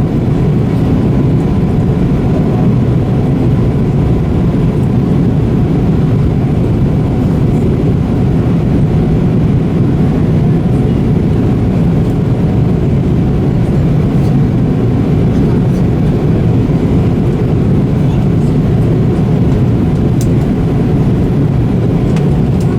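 Steady jet airliner cabin noise: a constant low rumble of engines and airflow, with a faint steady high tone above it.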